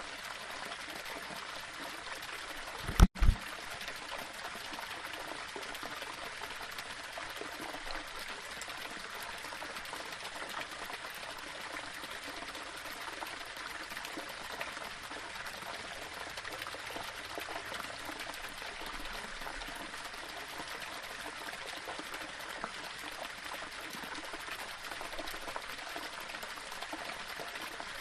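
Small waterfall splashing and trickling steadily over rocks. About three seconds in, the sound cuts out for an instant between two brief low thumps.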